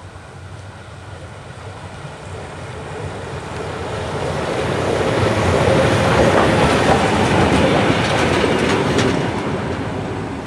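A train rolling past on the track, its wheels clicking over the rail joints, growing louder to a peak past the middle and then fading away.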